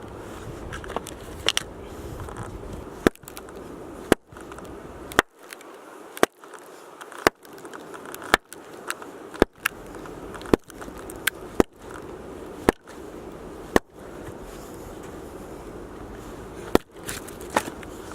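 Axe strikes splitting firewood: sharp knocks about once a second, with a few more near the end.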